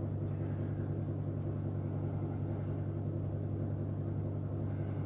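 Steady low hum of a space heater running.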